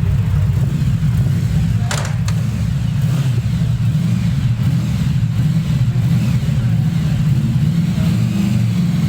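Yamaha VMAX 1700's V4 engine running at a steady idle through its exhaust, with one brief sharp click about two seconds in.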